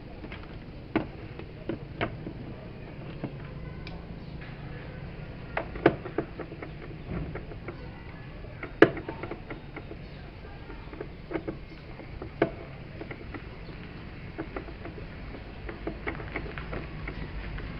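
Scattered light clicks and knocks at irregular intervals, the loudest about nine seconds in, from parts and tools being handled. A steady low hum runs underneath.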